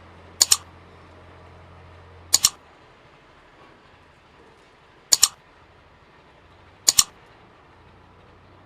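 Four sharp double clicks, each a quick pair, spaced about two seconds apart over a faint low hum that fades out about two and a half seconds in.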